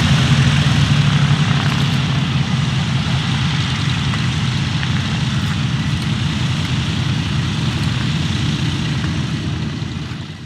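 The twin Armstrong Siddeley Cheetah radial engines of an Avro 19 Anson, running steadily at low taxiing power. The sound fades out right at the end.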